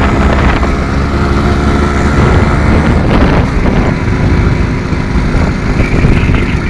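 Yamaha RX100's two-stroke single-cylinder engine running steadily under way on the road, with a heavy low rumble of wind on the microphone.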